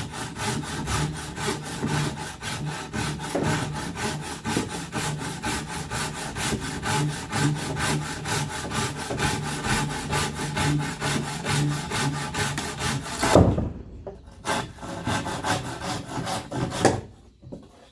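Hand saw cutting through wood in fast, even strokes, about four or five a second. The sawing stops about thirteen seconds in with a loud knock of wood, followed by a few scattered knocks.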